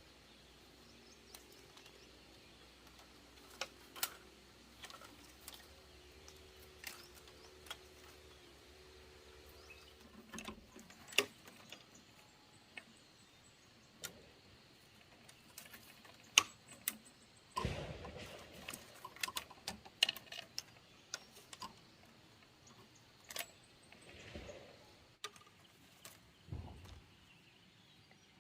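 Irregular clicks, taps and knocks, as of things being handled, with a louder cluster of knocks about two thirds of the way in. A faint steady hum runs under the first part and stops about ten seconds in.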